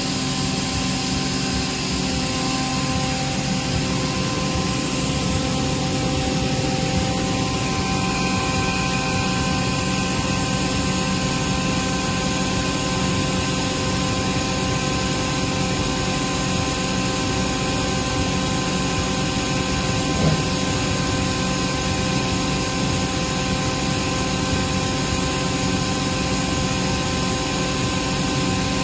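Atlas Copco GA22 VSD FF oil-injected rotary screw air compressor running steadily: a continuous hum of several steady tones over a hiss. One brief knock about two-thirds of the way through.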